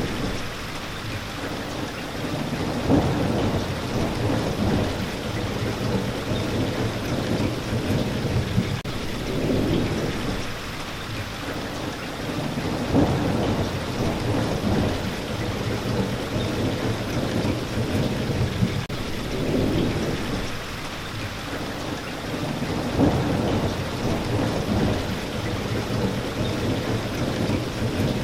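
Steady heavy rain with low thunder rumbling again and again in swells every few seconds.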